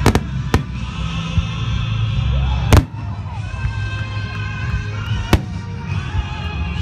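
Aerial firework shells bursting: four sharp bangs, two close together at the start, the loudest about three seconds in, and one more a little past five seconds. Music plays underneath.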